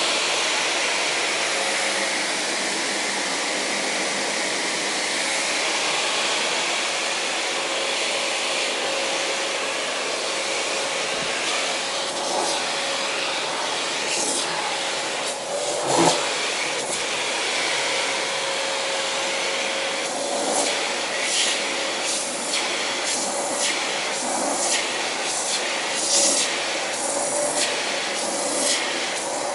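Vacuum cleaner running steadily with a constant whine as a cat is vacuumed. There is a single knock about halfway through, and in the last third the air hisses in short, repeated surges.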